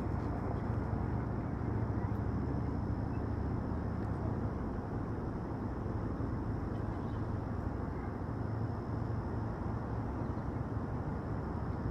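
Steady outdoor background noise, mostly low, with a faint high steady whine.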